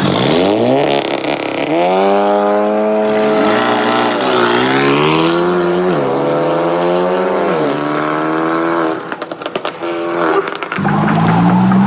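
A modified car accelerating hard away. Its engine pitch climbs and drops back at each upshift, three shifts in quick succession. After a brief lull with a few sharp pops, another car's engine starts climbing loudly near the end.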